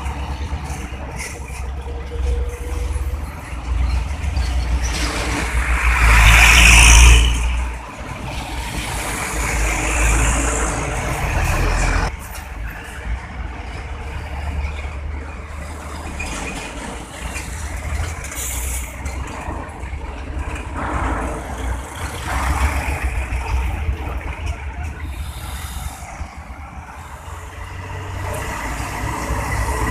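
Heavy trucks running and passing at a road junction, their diesel engines rumbling and rising and falling as each goes by. The loudest pass, about six seconds in, carries a strong hiss lasting about a second and a half.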